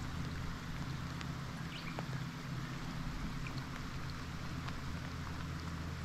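Heavy rain falling on a lake surface and a boat: an even hiss with scattered drop ticks, over a steady low hum.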